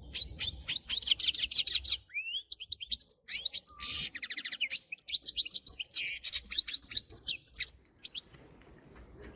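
European goldfinch singing: a fast, high twittering song with a harsh buzzy passage in the middle, stopping about a second and a half before the end.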